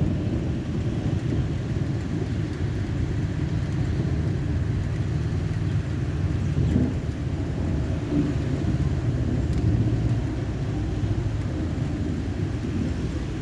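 Thunder rumbling low and steady, with small swells in loudness and no sharp crack.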